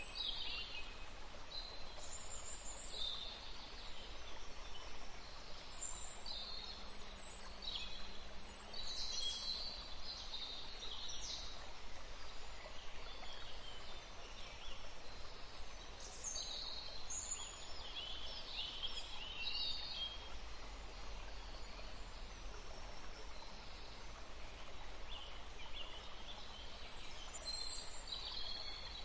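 Birds chirping in short, irregular clusters over a steady background hiss and low hum.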